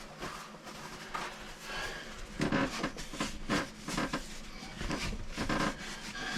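Irregular small clicks, knocks and rustling from hands and tools working on the water-line fittings under an RV toilet.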